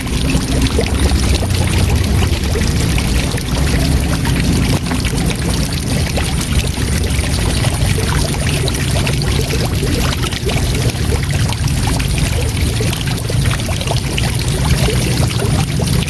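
Waterfall rushing steadily: a continuous hiss of falling water over a deep rumble.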